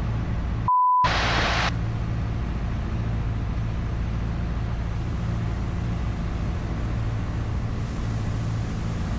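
Steady drone of a light aircraft's engine and airflow from inside the cabin on a gusty final approach. Near the start a short, pure beep sounds with all other sound cut out under it, followed by about half a second of hiss.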